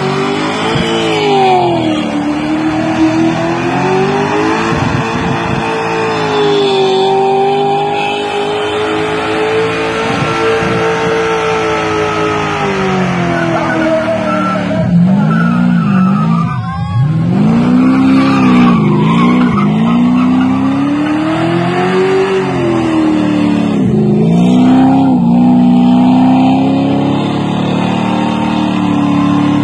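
Car engine revving hard during a burnout, the rear tyres spinning on the pad. The revs are held high at first, drop sharply about halfway through, then swing up and down several times.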